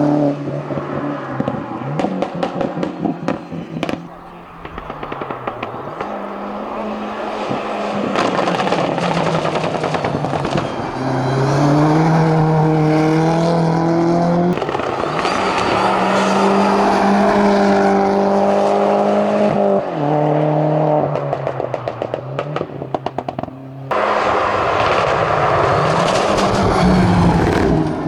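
Racing car engine at full throttle, its pitch climbing and then dropping sharply at several gear changes, with rapid crackling exhaust pops when the throttle is lifted.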